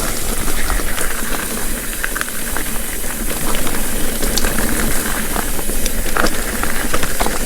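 Steady rushing wind noise on the microphone and tyres rolling over a dirt trail as a mountain bike descends, with scattered small clicks and rattles.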